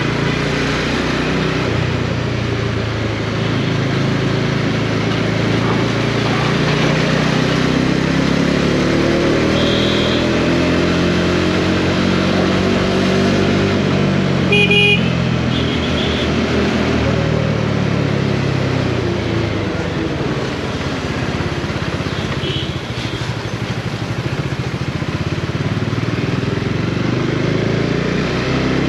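Bajaj Dominar 400's single-cylinder engine running under way, the revs rising and falling, with road and wind noise. A few short horn beeps sound, the loudest about halfway through.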